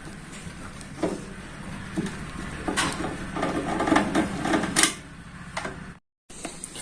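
Tool work on a microwave's sheet-metal casing as steel screws are undone: a few sharp clicks and a stretch of rattling and scraping, cut off abruptly near the end.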